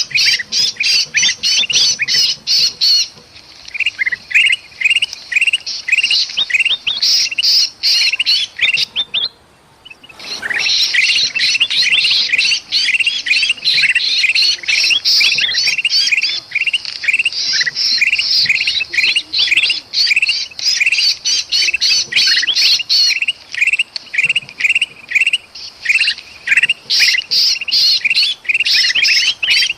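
Bulbuls calling noisily in rapid, repeated chirps: the agitated calls of kutilang emas mixed with the distress calls of a trapped sooty-headed bulbul (kutilang). The calls break off for about a second roughly a third of the way in, then resume.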